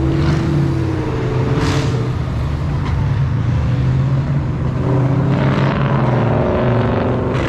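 A car engine running steadily at a constant low pitch, with a few brief hissing rustles over it.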